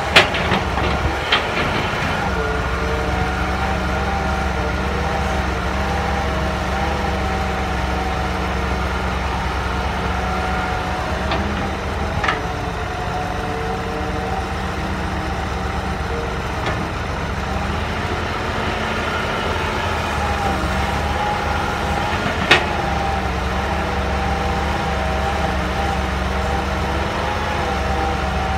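Hydraulic excavator's diesel engine running at a steady speed, with a few sharp knocks scattered through it, the loudest about two-thirds of the way in.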